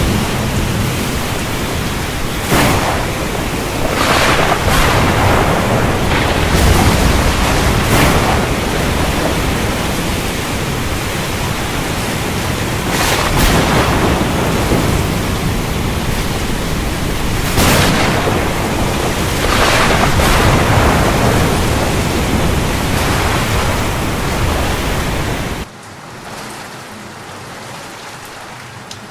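Heavy rain in a thunderstorm, with low rolling thunder and several sharper cracks. Near the end it cuts abruptly to lighter, quieter rain without thunder.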